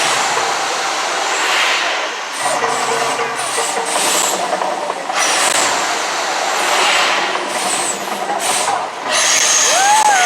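Mirage volcano eruption show: loud rushing, hissing roars of the eruption effects that swell and ease in waves every few seconds, with a whistle that rises and falls near the end.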